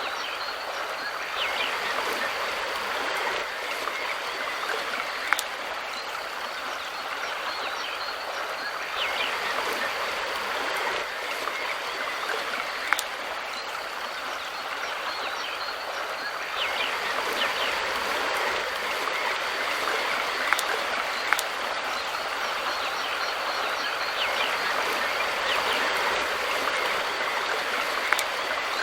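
Mountain river flowing steadily, with a few sharp clicks of water spread through.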